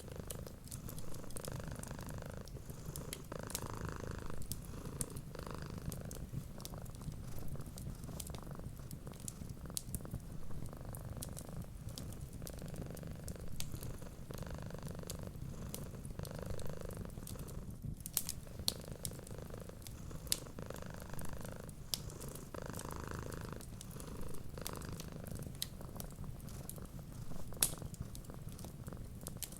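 A cat purring steadily in close-up, its low rumble swelling and easing with each breath about once every second or so, with scattered small crackles and pops from a wood fire.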